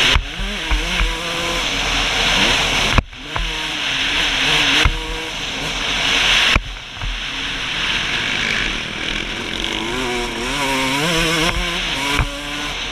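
Suzuki RM125's 125cc two-stroke single-cylinder engine revving hard, its pitch climbing and falling as the rider works the throttle and gears. The throttle is chopped abruptly twice, about three seconds in and again past six seconds, and a few dull knocks come through.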